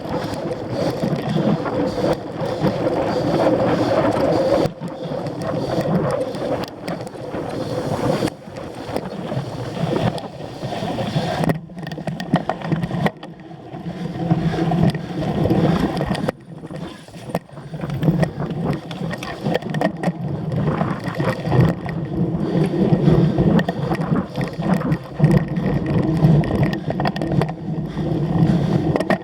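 Wind noise on a microphone carried on a cyclocross bike in motion, with frequent clatters and knocks as the bike jolts over rough ground.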